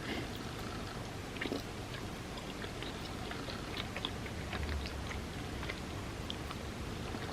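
Chewing of soft chocolate truffles soaked in warm almond milk, with many small wet mouth clicks spread through.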